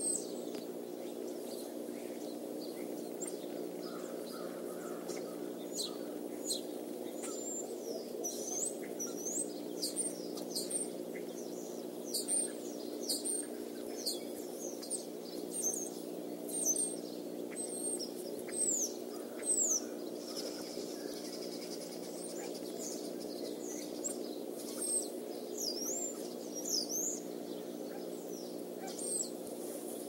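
Small birds calling with short, high-pitched, sweeping chirps, scattered irregularly through most of the stretch, over a steady low hum.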